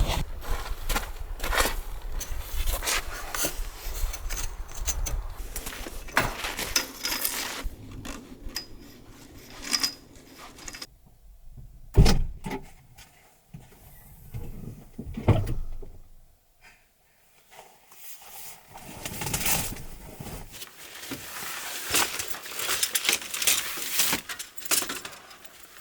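A string of irregular clicks, knocks, clinks and rustles from objects being handled, with sharper knocks about 12 and 15 seconds in and a near-silent stretch a little past the middle.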